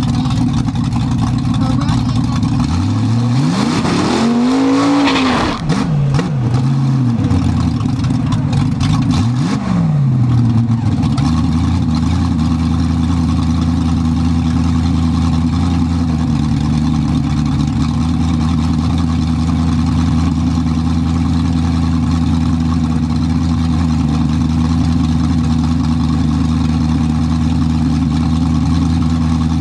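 A car engine idling loud and close, its throttle blipped a few times in the first ten seconds or so, the pitch rising and falling each time, then settling to a steady idle.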